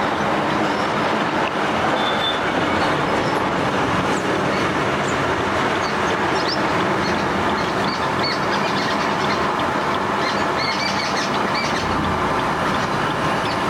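Small birds chirping in short high notes over a loud, steady rushing noise that has no clear pitch.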